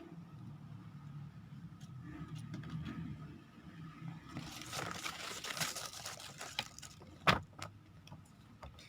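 Paper leaflet being handled and turned over, rustling for about two seconds around the middle, then a single sharp tap.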